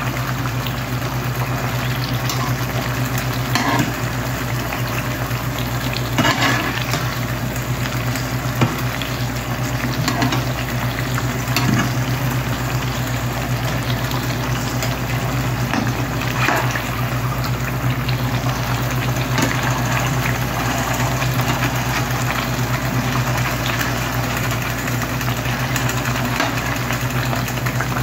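Sweet potato slices sizzling and bubbling as they deep-fry in oil with brown sugar, with a few brief scrapes of a metal slotted spatula against the pan as the slices are turned.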